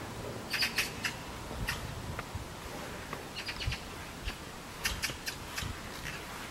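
Small birds chirping in quick clusters of short high notes, three bursts in all, with a few soft low thumps underneath.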